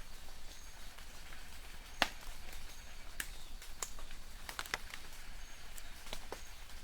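Light rain in a forest: a steady soft hiss with irregular sharp drips, the sharpest about two seconds in, and faint high chirps of distant birds.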